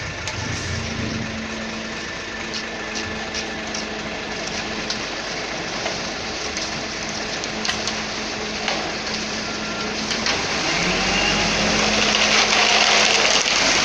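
Concrete mixer truck's engine running steadily, growing louder in the last few seconds.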